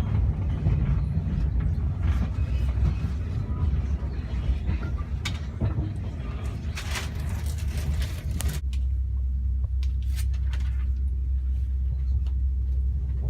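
Train running, a heavy low rumble with rattling and clatter over it. About two-thirds of the way through, the rattle cuts off suddenly and only a steady low hum remains.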